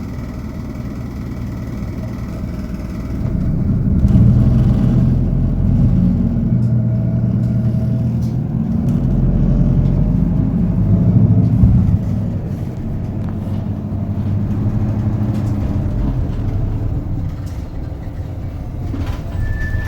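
Hino Poncho minibus's four-cylinder diesel engine and drivetrain, heard inside the cabin while driving: it builds up under acceleration about 3 to 4 seconds in, holds strong, then eases off about 12 seconds in. A high steady beep sets in just before the end.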